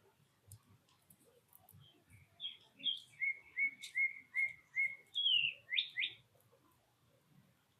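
A songbird whistling a phrase of clear slurred notes: a short run of repeated notes, then one falling note and two quick rising ones.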